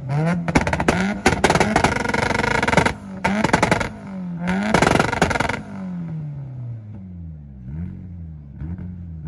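Mitsubishi car's engine held on a two-step launch limiter, firing a rapid, loud crackle of exhaust pops and bangs for about five seconds. The crackle then stops and the engine is blipped up and down a few more times.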